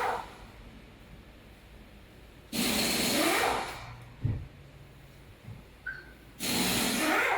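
Hissing bursts, each about a second long, repeating about every three and a half seconds, with a low thump around the middle.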